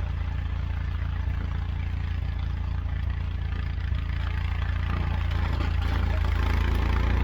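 An engine running steadily with a low, even hum, growing slightly louder near the end.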